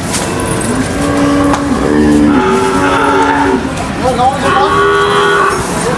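Cattle mooing: several long, drawn-out moos one after another, two of them overlapping in the middle.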